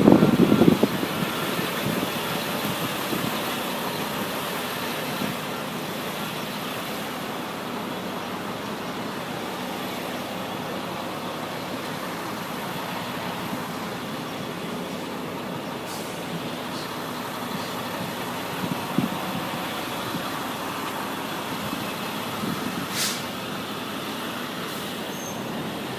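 Steady motor-vehicle noise, a vehicle running or driving, with a couple of brief clicks about two-thirds of the way in and near the end.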